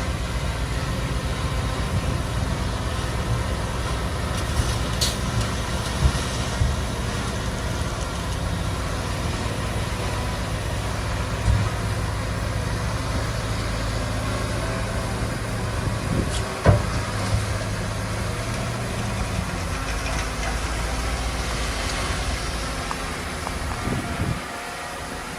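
Heavy diesel earthmoving machinery running steadily with a low drone, broken by a few sharp knocks or clanks. The drone drops away near the end.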